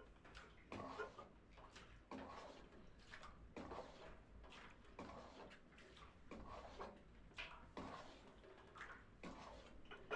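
Faint, irregular knocks and rustles, about one or two a second, like objects being handled.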